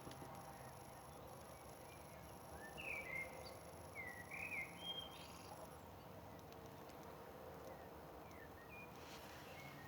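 Quiet outdoor ambience: a bird gives a few short chirps about three to five seconds in, over a faint high steady tone broken into short pulses.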